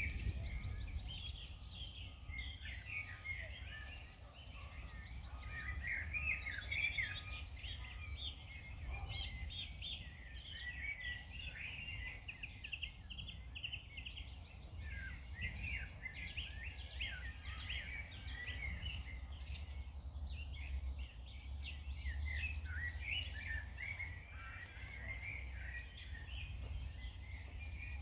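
Many songbirds chirping and singing without pause, over a steady low rumble of wind.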